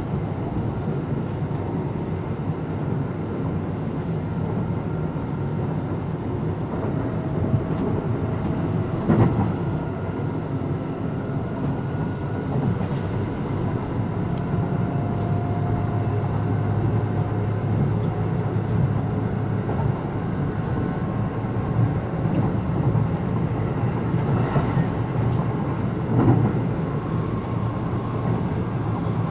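Cabin running noise of a Kintetsu 12200 series limited express car under way: a steady rumble of wheels on rail, with a faint whine in the background and a couple of louder knocks, one about nine seconds in and one near the end.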